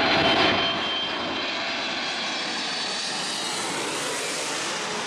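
Jet airliner engines running, a loud steady rush with a high whine in the first second.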